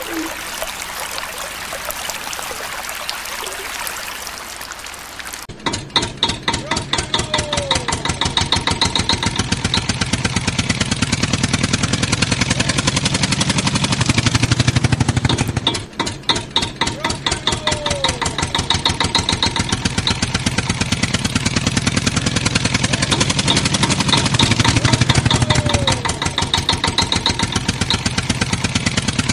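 A steady rushing, watery hiss, then a sudden cut to a tractor engine chugging with a rapid, even pulse. The engine sound repeats the same pattern about every ten seconds, like a loop.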